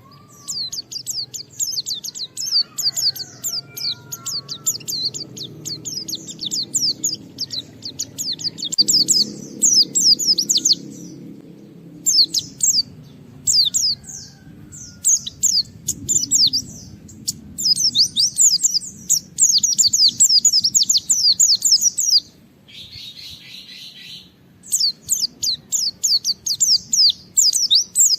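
White-eye (pleci) singing in long, fast runs of high, rapid chirping notes, broken by short pauses. A brief lower, buzzy call comes in near the end.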